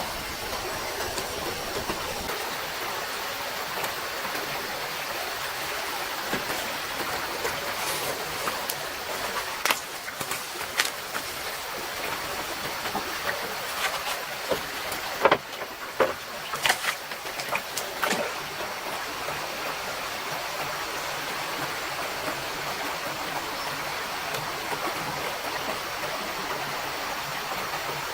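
Stream water running steadily, with a scatter of sharp clicks and knocks in the middle stretch.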